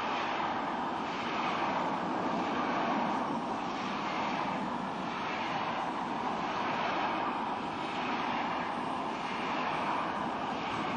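A train running along the line: a steady rushing rumble with a regular swell about once a second.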